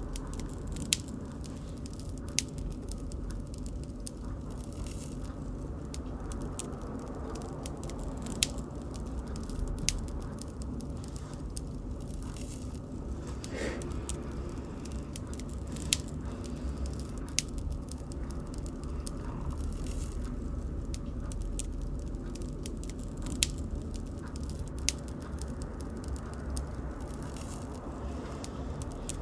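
Bonfire burning: a steady low rush of flames with many faint crackles and a sharp pop every few seconds.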